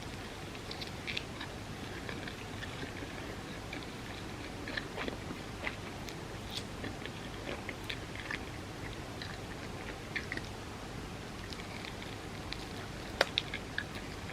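Close-miked chewing and wet mouth sounds from eating soft, creamy crepe cake: scattered small clicks and smacks over a steady low hiss, with one sharp click about 13 seconds in.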